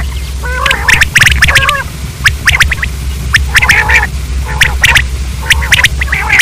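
Common quail calling again and again: sharp clicking notes mixed with short nasal chattering calls, several a second, over a steady low hum.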